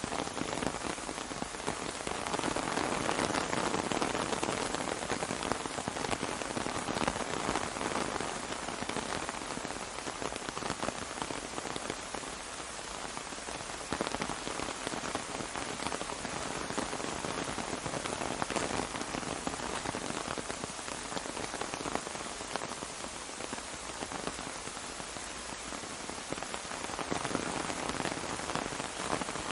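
Steady rain falling on an umbrella: a dense hiss of countless drop ticks, swelling a little now and then.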